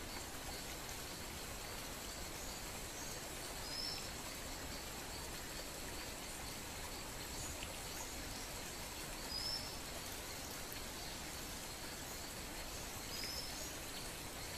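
Steady faint background hiss with a few short, faint high chirps from small birds, about four spread several seconds apart.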